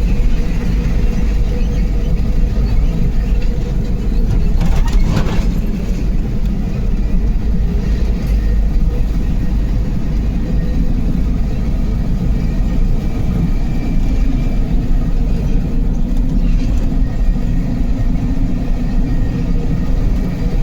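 Truck engine running steadily under way, a continuous low drone mixed with road rumble, with a short burst of clattering about five seconds in.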